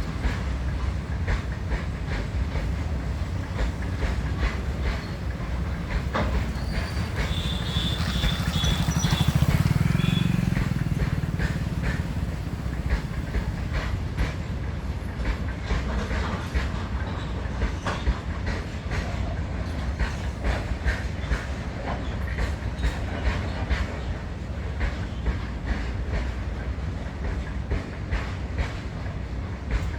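Freight train wagons rolling past, a steady low rumble with a continuous clickety-clack of wheels over rail joints. The rumble swells louder about nine seconds in, with a short run of high squeaks.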